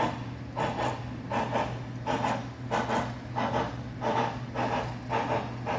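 Model steam locomotive sound decoder (TCS WOW Sound) playing rhythmic steam exhaust chuffs through the model's speakers, about three to four a second, for an HO-scale 2-6-6-2 articulated locomotive under way, with a steady low hum underneath.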